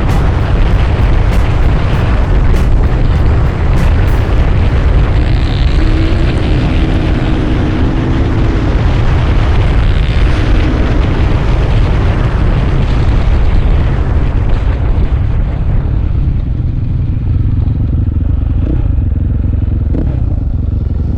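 Dirt bike engine running while being ridden, heard together with heavy wind rumble on the microphone; the high hiss fades away during the last several seconds.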